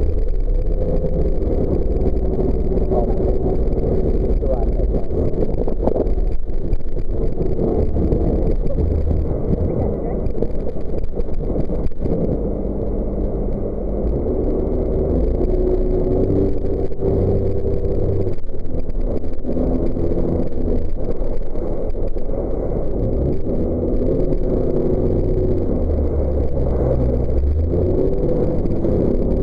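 Jet boat engine running under way, its note shifting up and down, over a heavy low rumble.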